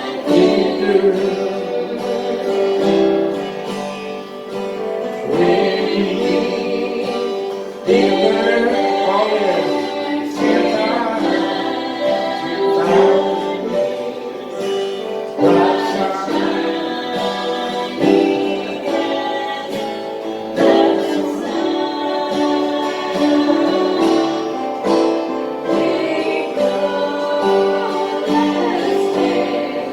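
A group of voices singing a slow hymn together, with guitar accompaniment.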